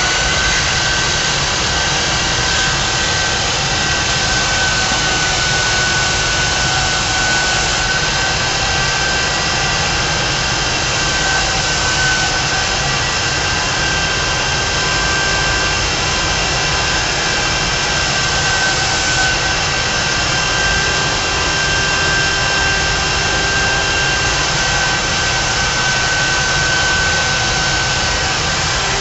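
Electric belt sander clamped in a bench vise, running steadily with a high, even whine over its motor and belt noise.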